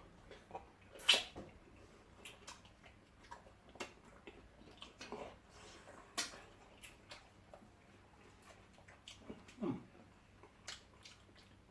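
Eating sounds from fufu with slimy ogbono soup: scattered quiet wet smacks, slurps and small clicks of mouths and fingers on the food, with a short low murmur near the end.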